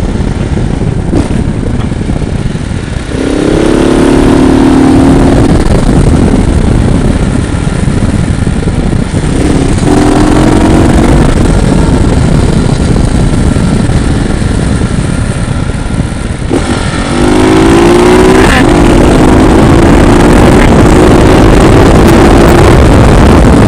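Motorcycle engine accelerating under way, its pitch climbing in steps with short breaks between gears about three seconds in and again in the second half, over a steady rush of wind and road noise.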